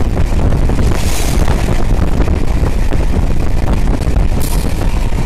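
Running noise of a moving MEMU electric train: a loud, steady low rumble with wind buffeting the microphone. There are two short hisses, about a second in and near the end.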